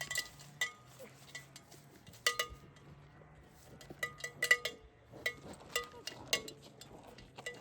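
Irregular light metallic clinks, about a dozen, each ringing briefly at the same few pitches.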